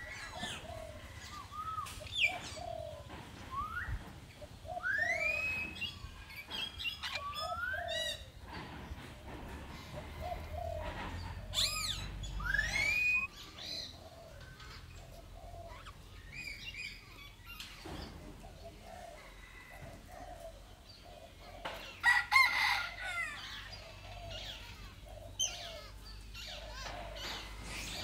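Birds calling outdoors: repeated short rising whistled calls and chirps, with a louder cluster of calls about 22 seconds in.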